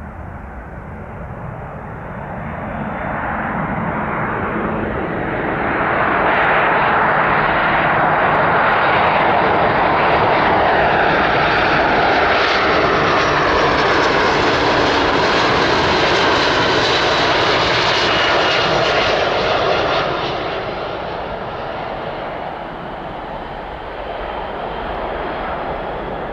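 Boeing C-17A Globemaster III's four Pratt & Whitney F117 turbofans as the jet comes in to land. The engine noise swells over the first few seconds, stays loud for about fourteen seconds with a whine that falls in pitch as the aircraft passes, then drops off about twenty seconds in.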